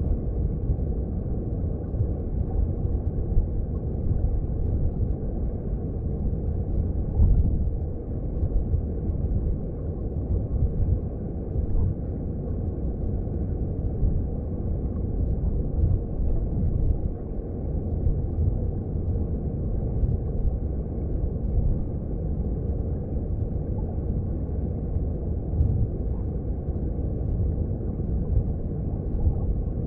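Underwater sound of a mountain stream: a steady, dense low rumble of flowing water and churning bubbles heard below the surface.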